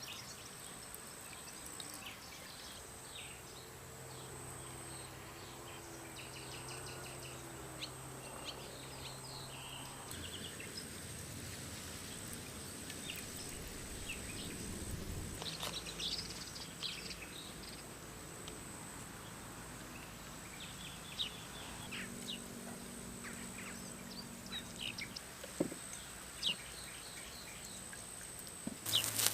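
Quiet woodland ambience with short bird chirps now and then over a faint steady background. A faint low drone runs through the first third.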